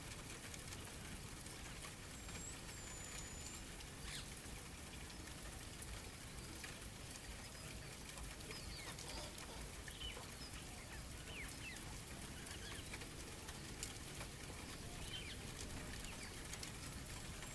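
Faint outdoor nature ambience: scattered short bird chirps over a steady low rumble, with a thin high whistle about two to three seconds in.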